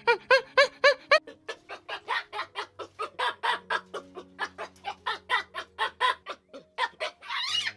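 Rapid series of short animal calls, about five a second, running on throughout with a denser burst near the end.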